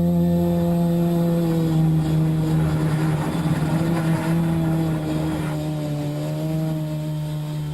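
Multirotor drone's electric motors and propellers buzzing at a steady, fairly even pitch, as in a hover, growing a little quieter in the second half.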